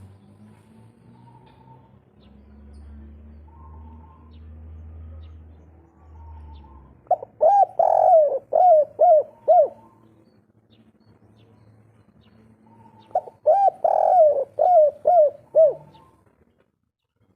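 Spotted dove (derkuku, the 'kuk 3' type) cooing: two phrases of about half a dozen quick, arched coos each, the first about seven seconds in and the second about thirteen seconds in, with faint chirps and a low hum between them.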